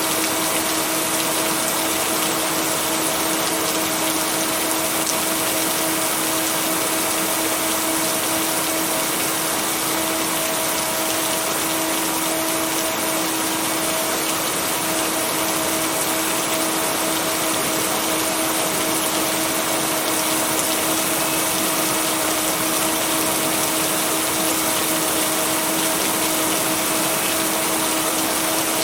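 Steady, even rain hiss with a constant low hum of a steady tone underneath, the binaural-beat tone blended into the rain track; no thunder.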